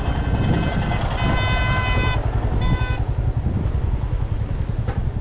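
A vehicle horn sounds twice, a one-second toot and then a short one, over the low steady rumble of a motorcycle engine running.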